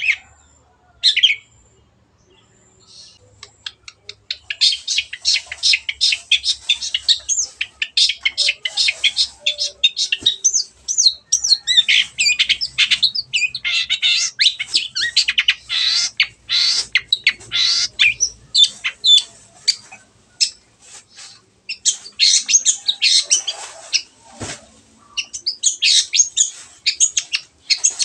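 Long-tailed shrike (cendet) singing: a couple of short calls, then a fast, dense run of rapid chattering notes that breaks off briefly about two-thirds of the way through and then resumes.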